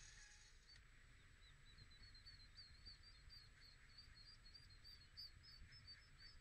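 Faint, rapid high-pitched bird chirping, short notes at about four a second, starting about a second and a half in, over a low steady outdoor rumble.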